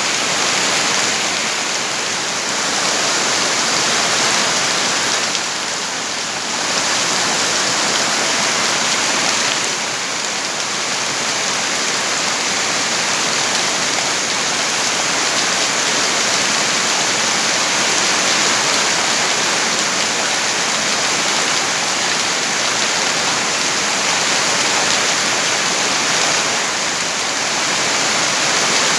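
Steady heavy rain: a dense, even hiss of falling water that wavers only slightly in loudness.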